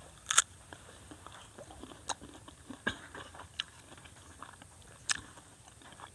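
A man biting into and chewing a crisp macopa (wax apple) close to a clip-on microphone. There is a sharp crunch about half a second in, then softer crunches every second or so.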